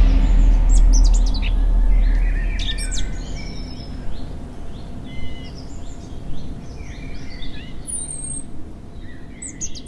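A deep boom dies away over the first two seconds, leaving birds chirping and whistling in short calls over faint steady background noise.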